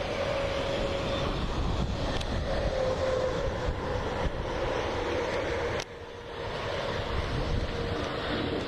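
Wind rumbling and buffeting over the microphone, with the faint, slowly wavering single tone of a distant outdoor tornado warning siren. There is a sharp click about six seconds in, after which the noise briefly drops.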